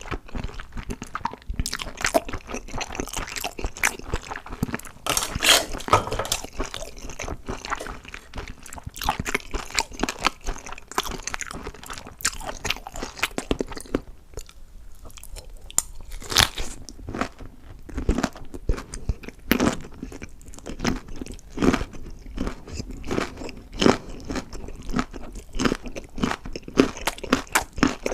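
A person biting and chewing crunchy food close to the microphone: dense, sharp crunches and crackles, with a short lull about halfway through.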